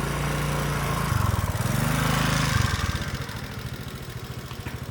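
A small engine running and revving: its pitch climbs about a second in, goes higher around two seconds, then falls back to a steady lower run near three seconds.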